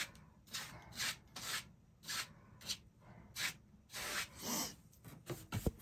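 A paintbrush loaded with paint stroking back and forth on a stretched canvas, a series of short scrubbing swishes about two a second. A low knock comes near the end.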